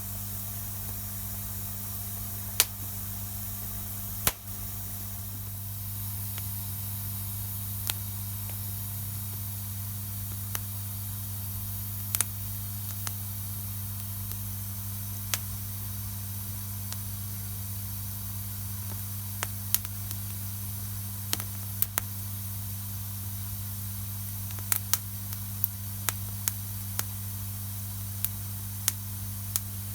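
Wood fire crackling: a steady hiss broken by irregular sharp pops and snaps, more frequent in the second half, over a steady low hum.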